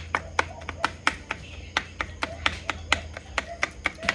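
Quick, regular strikes on raw chicken thighs on a cutting board, about four a second, working the salt and pepper into the meat.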